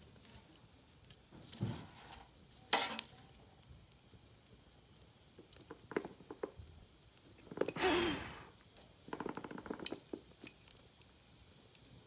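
Bonfire of rain-soaked wood crackling and sizzling, with scattered sharp pops. A few louder rustling swells come through, the biggest about eight seconds in.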